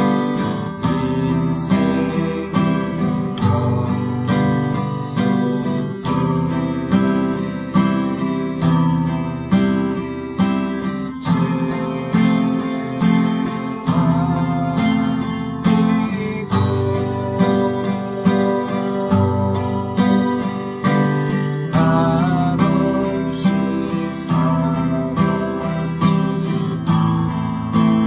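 Acoustic guitar playing a three-four waltz accompaniment. Each bar opens with a low bass note struck down, then the higher strings are picked down and up. The chords change every few seconds.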